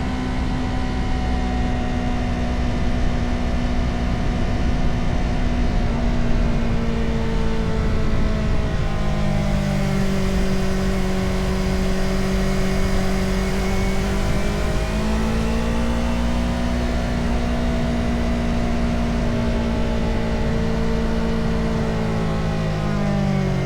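Motorcycle engine running under way. Its pitch falls about a third of the way in, climbs back after about fifteen seconds, and drops again near the end as the rider shifts and works the throttle. A steady low rush of wind and road noise runs underneath.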